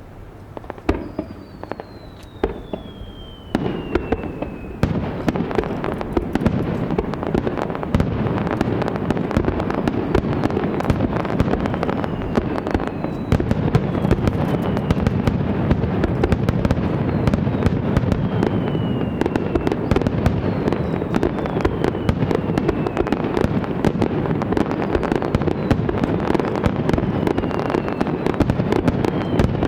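Fireworks display: a rapid barrage of shells bursting with dense crackling, thickening into a continuous wall of bangs about four seconds in. Whistles falling in pitch sound every few seconds over the bursts.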